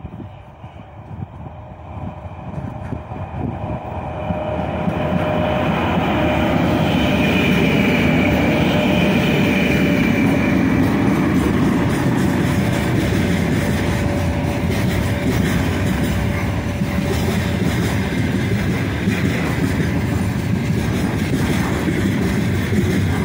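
3ES5K 'Ermak' three-section electric freight locomotive approaching and passing at speed. It grows louder over the first few seconds, with a steady high whine as it nears. Then comes the steady rumble and clatter of loaded container wagons rolling past on the rails.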